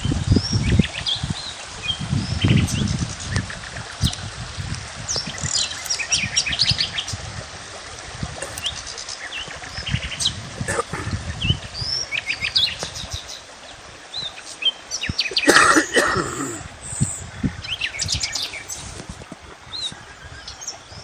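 Small songbirds chirping and trilling, many short high calls overlapping, with a louder burst of calls about fifteen seconds in. Low rumbles come and go underneath.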